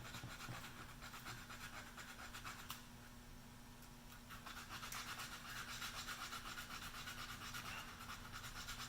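Sandpaper rubbed back and forth by hand over the sealer finish on a wooden gunstock, sanding out finish overruns: a faint, rapid scratching that eases off about three seconds in and picks up again about a second later.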